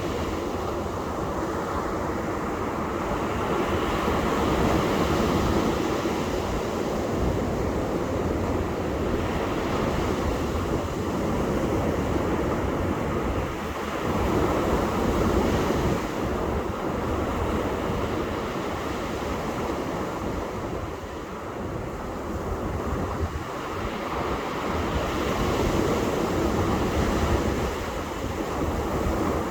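Ocean surf breaking and washing on a beach, a steady rush that swells and eases every few seconds, with wind buffeting the microphone.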